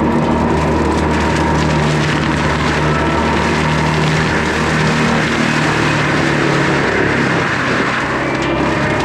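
Skid steer's diesel engine running steadily at high throttle while it drives a brush-clearing attachment. The engine note dips briefly near the end.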